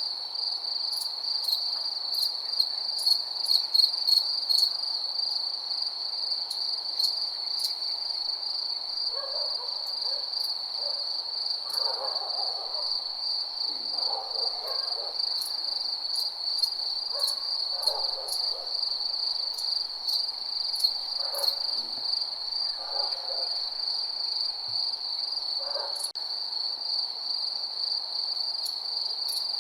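Crickets chirping in a steady, high, pulsing chorus, with scattered sharp ticks, most in the first several seconds. From about nine seconds in, an animal gives a series of low calls every second or two, about a dozen in all.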